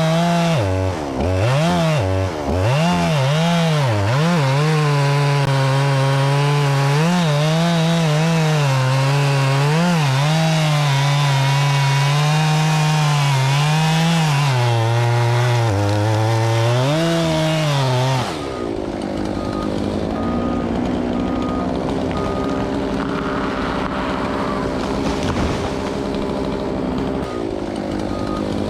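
A two-stroke chainsaw cutting wood, its engine speed rising and dipping repeatedly as the chain loads up in the cut. It cuts off suddenly about two-thirds of the way in. A lower steady diesel engine is left running, with a reversing alarm beeping at an even pace.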